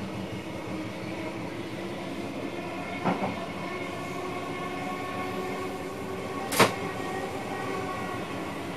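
VIRM double-deck electric train running, heard from inside the driver's cab: steady running noise with several humming tones. A short knock comes about three seconds in, and a louder, sharp crack about six and a half seconds in.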